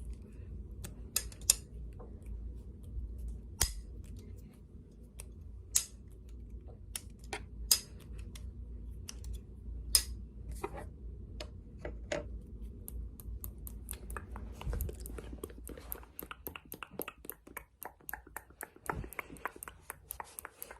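Close-miked ASMR triggers: scattered sharp clicks and taps on objects, turning about two-thirds of the way through into a denser run of quick tapping and rubbing.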